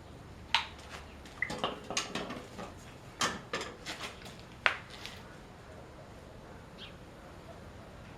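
Metal tools and engine parts clinking and knocking against each other in a string of sharp hits, stopping about five seconds in.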